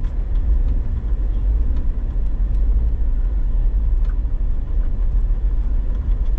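A vehicle engine running steadily, a constant low rumble with a few faint clicks over it.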